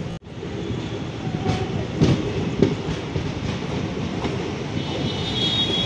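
Moving passenger train heard from the open doorway of a coach: steady wheel-on-rail rumble with irregular clacks as the wheels run over rail joints. The sound cuts out briefly just after the start, and a thin high tone joins near the end.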